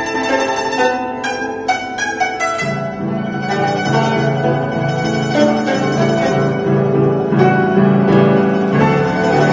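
Guzheng playing a multi-voice piece: quick plucked notes at first, then a fast repeating low part joins about a third of the way in and runs under the melody.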